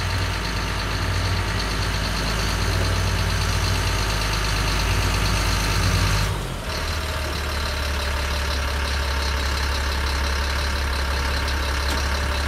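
GMC C6500 water truck's engine idling steadily. A little past halfway it dips briefly and settles into a lower, steady note.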